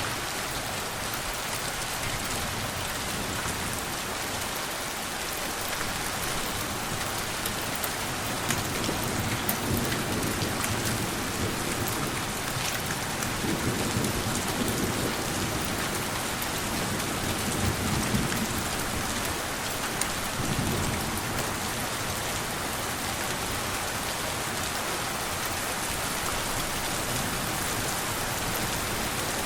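Steady rain falling, with gentle low rumbles of thunder rolling in a few times through the middle.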